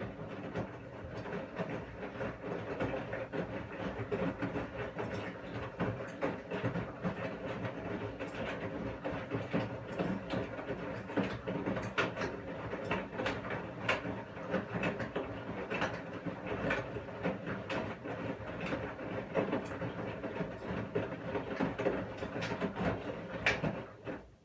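Washing machine turning its drum in the wash cycle: a steady motor hum with frequent rattles and knocks from the tumbling load. It starts abruptly and stops near the end, leaving a pause.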